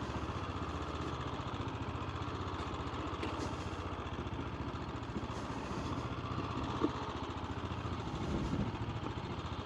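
AJP PR7 motorcycle's single-cylinder engine running steadily at an even, low pace while being ridden slowly.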